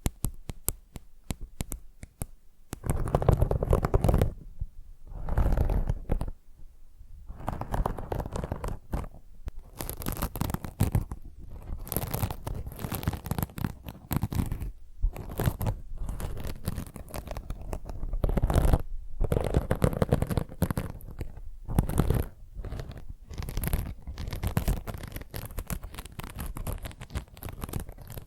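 Fingernails scratching and tapping on objects held right against the microphone, in quick bursts of dense strokes, several of them with a heavy low rumble.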